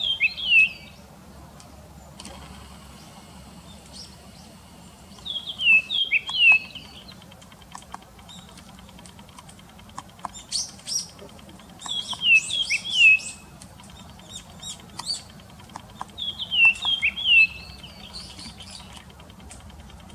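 Japanese grosbeak singing: four short phrases of clear, falling whistled notes, each about a second long and several seconds apart, with thin high chirps between them.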